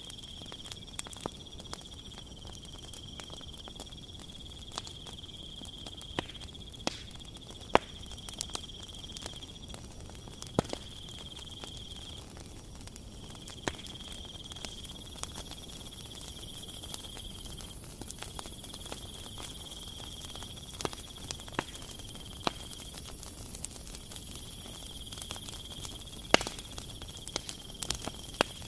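Cricket trilling on one steady high note, broken every few seconds by short gaps, with scattered sharp clicks and faint crackles over it.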